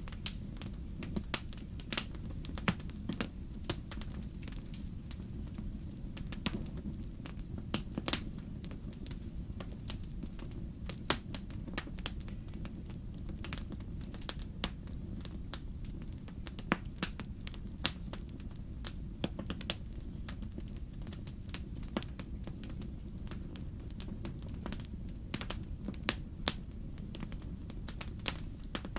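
Wood fire burning in a fireplace: a steady low rumble with irregular sharp pops and crackles.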